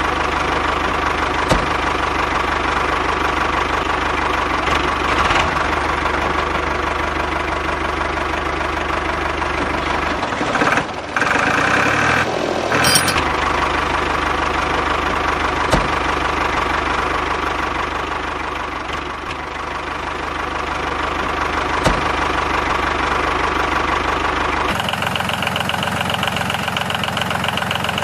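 A motor running steadily with a rhythmic knock, like an idling engine. About ten seconds in it is briefly disturbed, and near the end it switches abruptly to a different, higher-pitched running sound.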